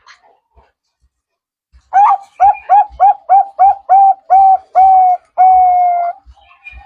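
Zebra dove (perkutut) singing: a series of about nine short, clear coos starting about two seconds in, the notes growing longer and ending in one long drawn-out coo.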